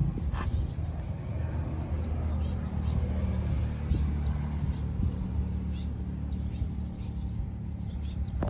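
Small birds chirping in short, repeated calls over a steady low rumble of background noise.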